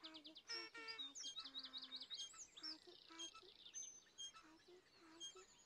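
Faint birdsong from several birds: quick runs of high repeated chirps and trills, mixed with some lower warbling notes.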